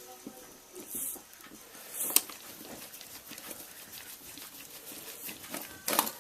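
Light clicks and rattles of small parts and a screw being fitted back into an RC buggy's rear suspension, with a few short hissing bursts and one sharper click about two seconds in.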